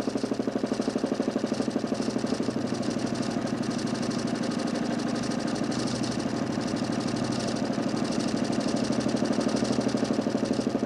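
DC motor spinning a large 40 cm plywood Nipkow disc of a homemade 32-line mechanical television. It runs steadily with a fast, even pulsing whirr.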